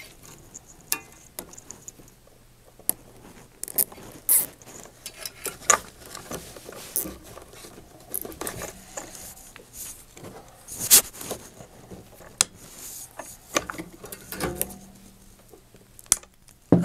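Nylon zip ties being pulled through and ratcheted tight around bundled wire leads, with rustling of the wires and scattered sharp clicks of handling.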